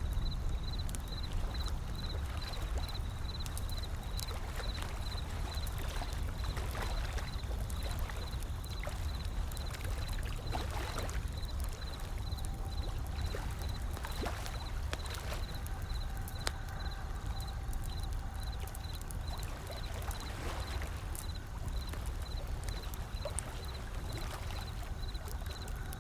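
Ocean waves washing in as a steady low rush, with a wood fire crackling in scattered sharp pops over it. A faint high chirp pulses about three times a second alongside.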